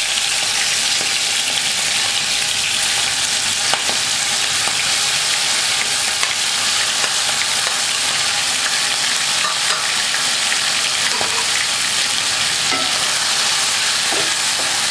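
Prawns rubbed with salt and turmeric sizzling steadily in hot mustard oil in a kadai, being lightly fried, with a few faint clicks of a spoon and wooden spatula against the pan.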